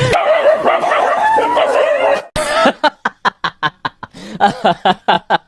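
A dog whining with a wavering pitch for about two seconds, then barking rapidly in short sharp barks, about four a second.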